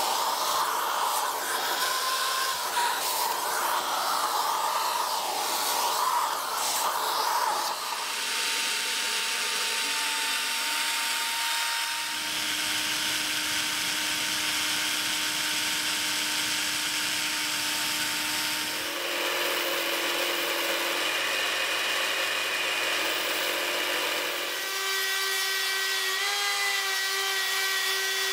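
Small electric power tools working on the knife, in several abrupt cuts: a rough grinding or sanding noise first, then steady motor whines that change pitch from cut to cut.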